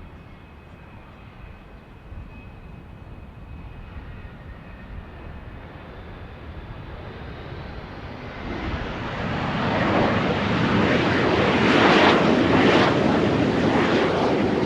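Airplane engine noise building as an aircraft comes close: a faint whine and rumble at first, swelling about eight seconds in to a loud, rushing engine roar.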